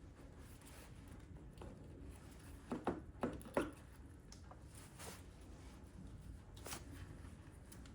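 A few faint, short clicks and taps over a low hum, three close together about three seconds in and two more singly later.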